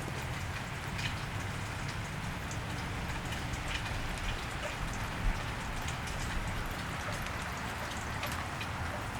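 Steady rain falling on a wet street, with scattered individual drops ticking.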